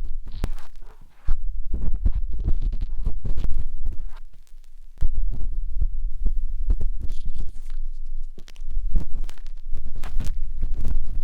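Matchsticks scraping and rubbing inside the silicone ear of a 3Dio binaural microphone: dense, irregular close-up scratching and crackling over low, muffled thumps and rumble. It eases off briefly about four seconds in, then picks up again.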